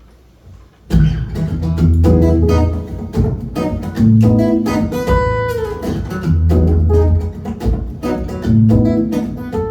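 Acoustic guitar playing the song's instrumental intro, starting about a second in after a brief hush, with deep low notes sounding under the plucked chords.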